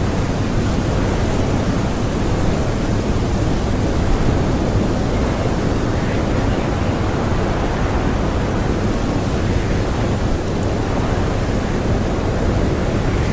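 Blizzard wind blowing: a steady, even rush of noise, heaviest in the low end, with no distinct gusts.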